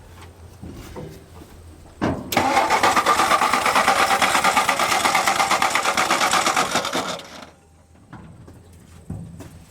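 1962 Ford F-350's starter cranking the engine for about five seconds in a fast, even rhythm, then stopping without the engine catching.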